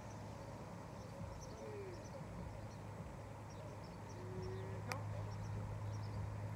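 Outdoor field ambience: scattered faint high bird chirps and a couple of short low bird notes over a steady low hum, with one sharp click about five seconds in.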